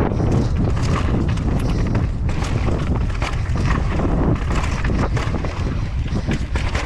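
Strong wind buffeting the microphone, mixed with a continuous rattle and clatter of short knocks from a mountain bike riding over rough, rocky ground.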